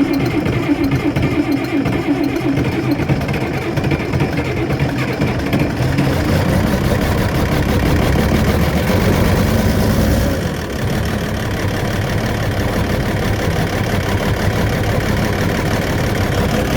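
International Harvester 1486 tractor's six-cylinder diesel starting from cold without ether and running, loud and steady, becoming somewhat quieter about ten seconds in.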